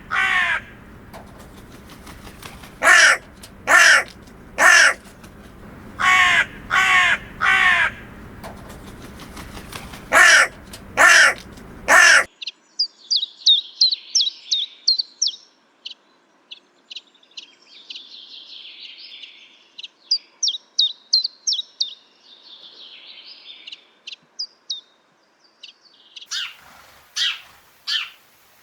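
Birds calling: a run of loud, harsh calls in groups of two or three, which stops abruptly about twelve seconds in. A fainter, high twittering song of quick notes follows, and harsh calls come in again near the end.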